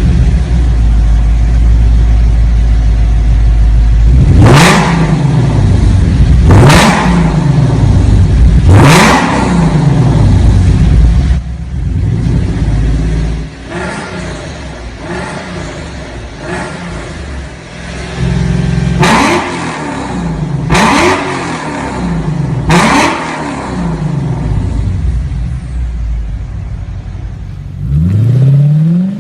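Lexus IS F's 5.0-litre V8 running steadily, then blipped in two sets of three sharp revs that each fall back to idle, with a fresh rising rev near the end.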